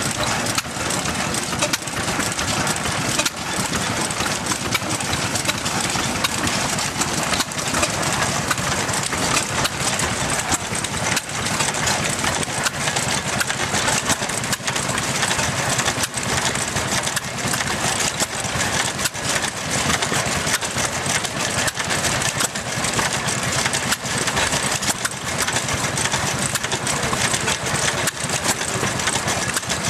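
1920 Austral 4 hp antique stationary engine running steadily, a quick, even beat of firing strokes.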